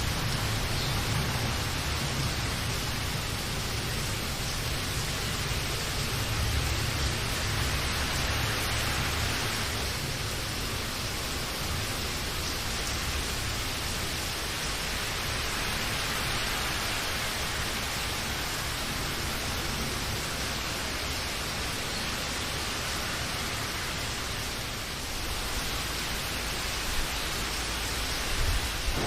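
Steady rain, an even hiss with no pauses. A low rumble sits underneath in the first several seconds, and there are a couple of brief sharp taps near the end.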